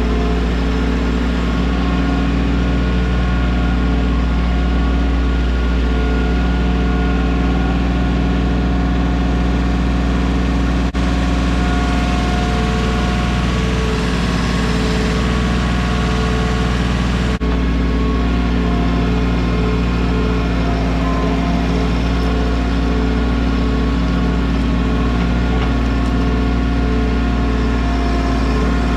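Mahindra 1626 tractor's diesel engine running steadily, with a strong low hum; the sound briefly drops out twice.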